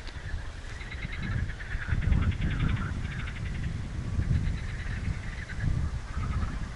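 Songbirds singing, with chirps and a fast trill, over an uneven low rumble.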